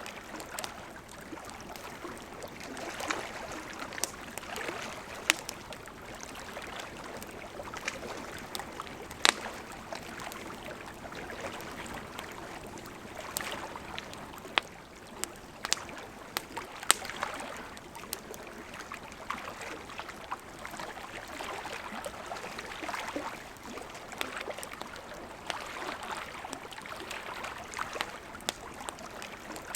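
Wood campfire crackling, with irregular sharp pops, over gentle lake water lapping in slow swells.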